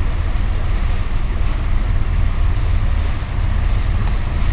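Staten Island Ferry under way: a steady deep rumble with an even rushing hiss of wind and wake water over the microphone.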